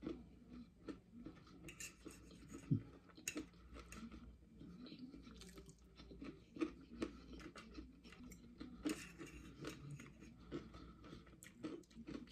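A person quietly chewing a forkful of fish, fries and corn, with irregular small clicks of a metal fork against a plate.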